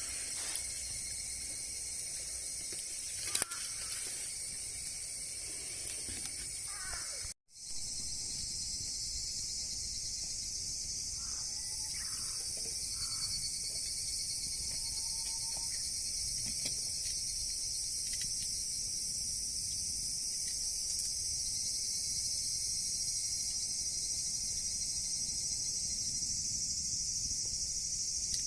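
Steady high-pitched buzzing chorus of summer insects, with a few short faint animal calls about 11 to 13 seconds in. The sound drops out for a moment about 7 seconds in.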